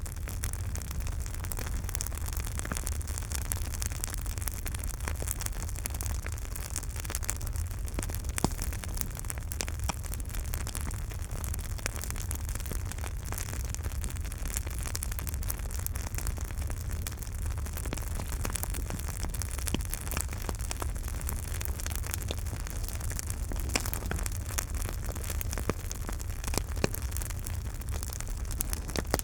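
Campfire burning with frequent irregular crackles and pops over a steady low rumble, one sharper pop about eight seconds in.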